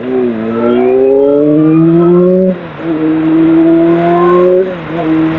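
Sportbike engine accelerating through the gears: the note climbs steadily, drops with an upshift about two and a half seconds in and again near the end, then climbs again.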